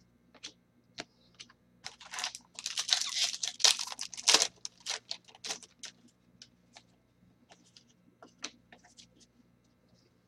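Trading card pack wrapper being torn and crinkled for about two seconds, followed by scattered light clicks and snaps of cards being handled and flipped through.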